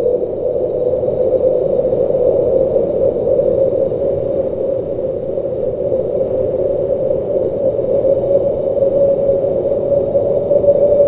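Blizzard wind blowing steadily, a dull, low rushing noise with little hiss, its strength wavering slightly.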